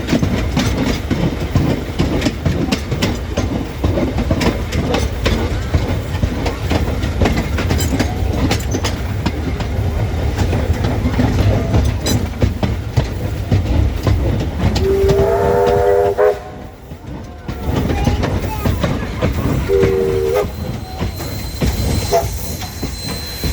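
Heritage train running along the line: a steady rumble with rapid clicking of the wheels over the rail joints. Its whistle sounds twice, for about a second some fifteen seconds in and briefly again about five seconds later.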